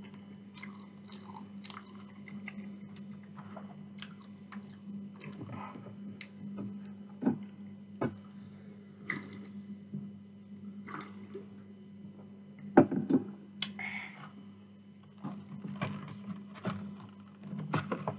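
Close-miked chewing and mouth sounds of a person eating chips, with a fork clicking and scraping in a foam takeaway box and a drink from a can around the middle, over a steady low hum. A sharp knock about two-thirds of the way through is the loudest sound.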